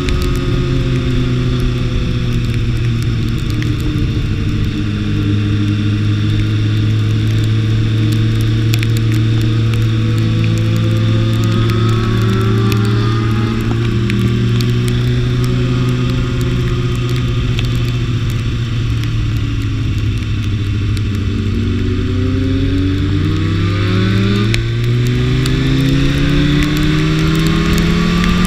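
BMW S1000RR inline-four engine running at steady revs, with a brief change in pitch partway through, then climbing steadily in pitch over the last several seconds as the motorcycle accelerates.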